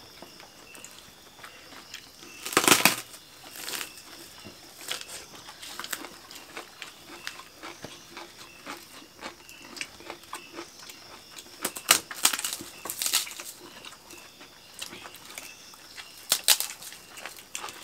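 Eating sounds: people chewing crunchy food, with short loud crunches about three seconds in and again around twelve, thirteen and sixteen seconds, and quieter chewing and crackling in between.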